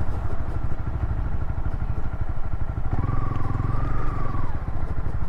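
Motorcycle engine running steadily at low speed in an off-road trail ride, its firing pulses continuous. A wavering higher tone joins for about a second and a half, roughly three seconds in.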